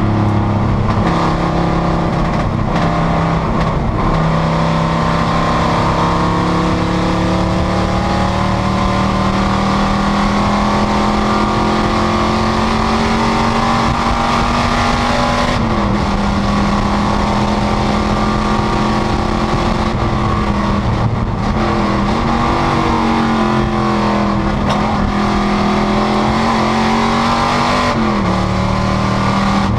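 Panoz GTS race car's V8 engine running hard at high revs, its pitch climbing slowly under sustained acceleration, then dropping sharply about halfway through as the driver lifts or brakes, with two more brief dips in revs later on.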